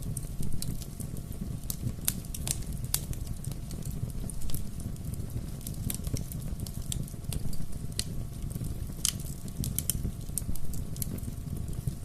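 Wood fire burning with a steady low rumble and irregular sharp crackles and pops, a few louder snaps among them.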